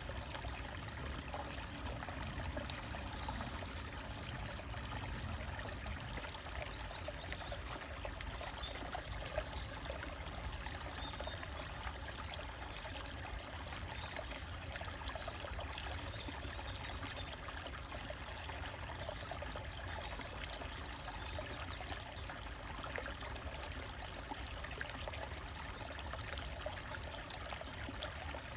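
Small stream trickling over rocks, a steady, even flow of water.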